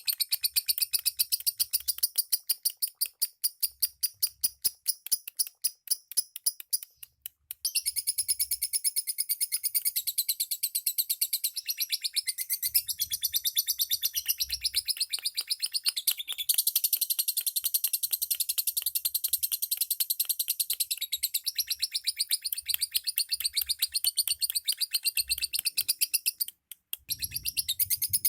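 Lovebirds chirping in a fast, unbroken string of high chirps, many a second, pausing briefly twice.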